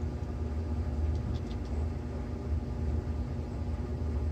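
Steady low hum of room background noise, with a few faint light clicks.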